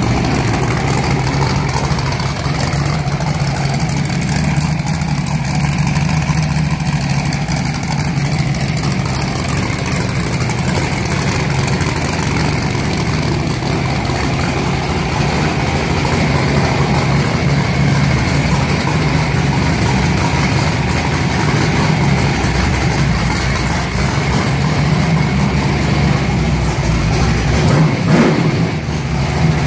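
Freshly built Chevy 350 small-block V8 with a solid-lifter drag-race cam running at idle with a nasty cam sound, revved briefly near the end.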